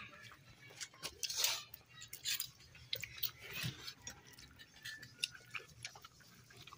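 Close-up chewing of rice and fish curry eaten by hand, with small irregular clicks and scrapes of fingers against a steel bowl.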